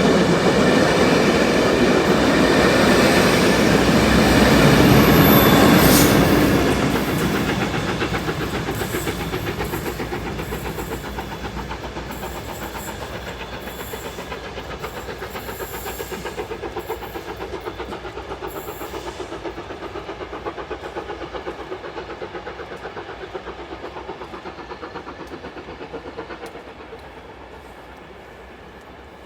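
A train passing close by, loudest about five seconds in, then fading away as it moves off, with its wheels clicking rhythmically on the rails.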